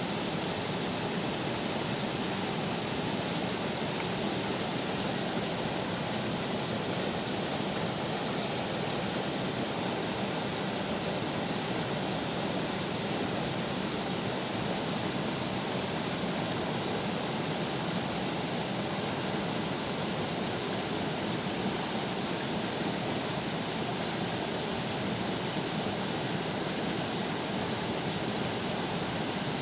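River water running steadily, a constant even rush of flowing water.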